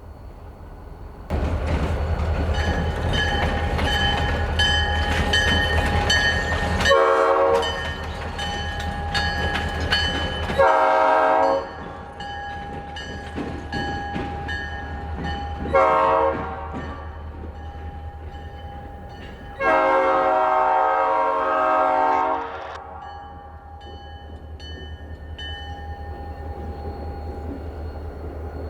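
Diesel locomotive horn sounding the grade-crossing pattern: two longer blasts, a short one, then a long one. It plays over the loud running of the diesel locomotives' engines as the train goes by, and the engine sound eases off near the end.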